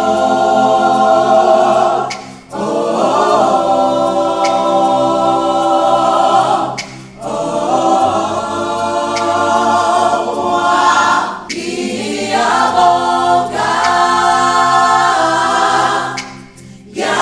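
Voices singing a gospel song together in harmony, long held notes in phrases a few seconds apart with short breaths between them.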